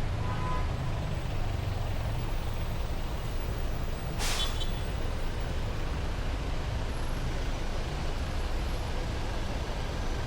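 Heavy city road traffic rumbling steadily, with a short, sharp hiss about four seconds in and a brief tone near the start.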